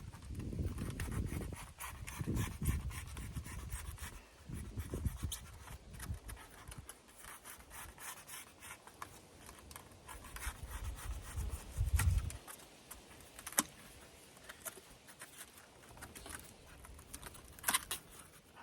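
Foam board insulation being handled and worked into place: rubbing and scraping with many scattered sharp clicks, and low thuds in the first few seconds and again about twelve seconds in.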